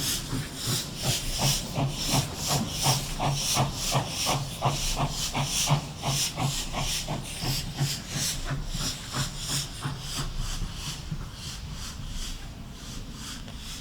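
GWR pannier tank steam locomotive working, its exhaust chuffing in a regular beat of about three a second with steam hiss. The beats fade away over the last few seconds.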